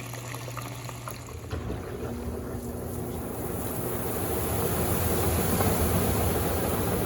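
Electrolux Turbo Compacta 7 kg washing machine starting its turbo spin. A low hum gives way, about a second and a half in, to a whirring rush that grows steadily louder as the drum speeds up.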